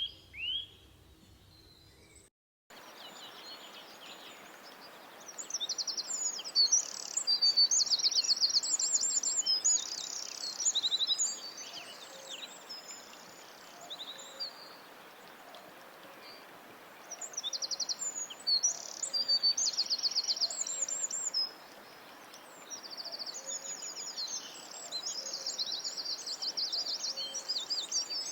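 Songbirds singing in repeated phrases of fast, high trills over a steady background hiss. A few short falling chirps at the start are cut off by a brief dropout, after which the trilling song begins.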